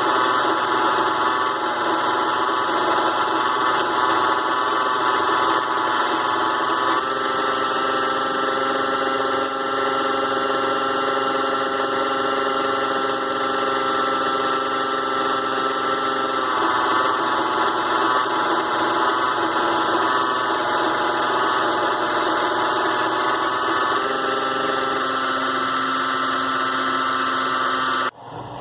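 A ZhouYu 6-in-1 mini lathe's DC motor runs steadily with a whine while turning aluminum stock, its tone changing a few times. It cuts off suddenly near the end.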